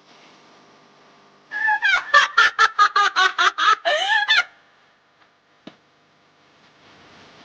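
A chicken cackling: a quick run of about a dozen pitched calls, some four a second, lasting about three seconds, followed a second later by a single faint click.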